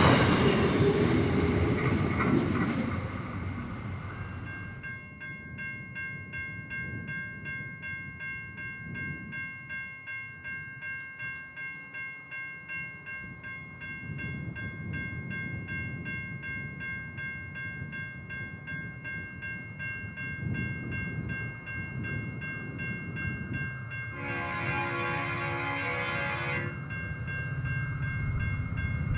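A diesel-hauled train rumbles past and fades away. A high ringing then pulses rapidly and steadily, and about 24 seconds in a locomotive horn sounds once for about two and a half seconds while the low rumble of a train builds again.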